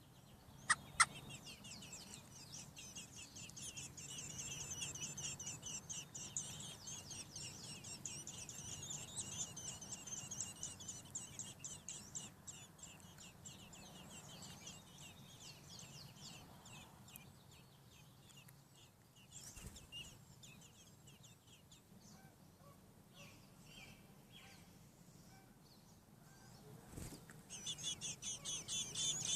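American robin nestlings begging: a rapid, dense run of high peeps that fades away about halfway through and starts up again, louder, near the end. Two sharp clicks come about a second in.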